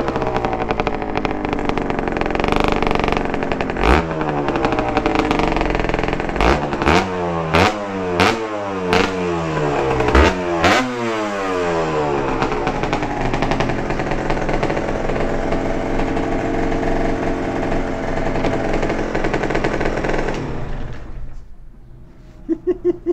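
Suzuki TS125R's single-cylinder two-stroke engine through a DEP aftermarket exhaust, revved in a run of quick rising blips with sharp pops between them. It then runs at a steady pitch, and the sound falls away near the end.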